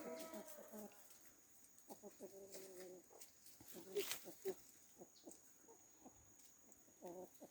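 Chickens clucking faintly, a few short calls scattered through.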